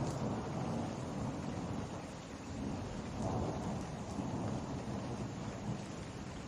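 Heavy summer rain falling steadily, with a low rolling rumble of distant thunder that swells near the start and again about halfway through.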